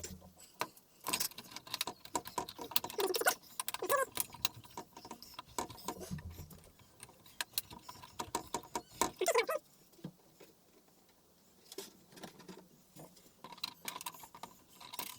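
Plastic and metal television parts being handled and fitted back together: a busy run of clicks, taps and rattles, easing off about two-thirds of the way through, then a few more clicks near the end.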